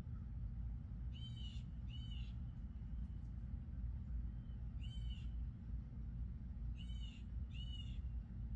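A bird calling five times, short harsh calls mostly in pairs, over a steady low rumble.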